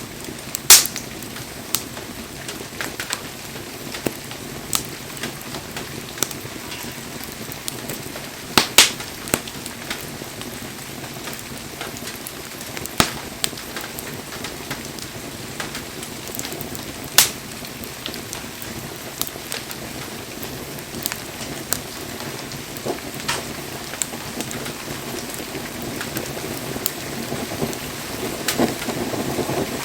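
Wood bonfire burning with a steady hiss and irregular crackling, broken by a few loud, sharp pops from the burning firewood; the crackling thickens near the end.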